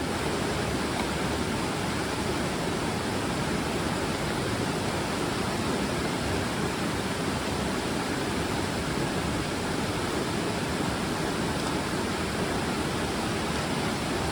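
Steady rush of a fast-flowing mountain river, running high after a week of rain.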